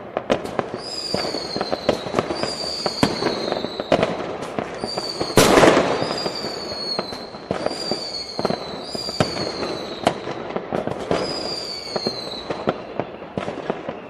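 Many fireworks going off at once: a dense crackle of bangs and pops, with one heavy blast about five and a half seconds in. A high whistle that falls slightly in pitch repeats about once a second.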